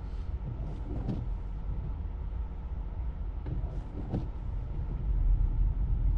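Steady low road and tyre rumble heard inside a Tesla electric car as it drives over a snow-covered road, with a few brief swishing sounds about a second in and about four seconds in. The rumble grows louder near the end.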